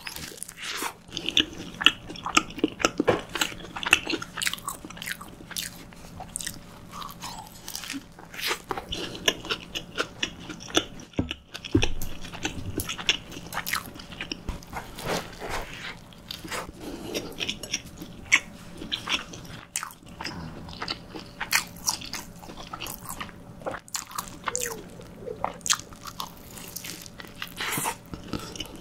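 Close-miked eating of a small homemade dinner-roll hamburger with lettuce and cheese: bites into the burger, then chewing with many irregular soft crunches and short mouth clicks.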